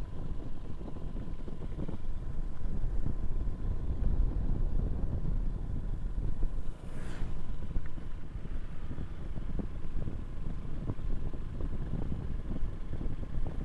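Motorcycle ride sound: wind buffeting the microphone and road rumble over a low engine note, with a faint steady whine. A brief hiss comes about seven seconds in.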